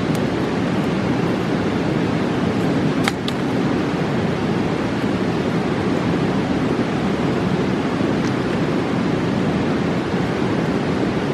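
Steady rushing of a fast mountain river. A campfire gives a sharp pop about three seconds in and a fainter one near eight seconds.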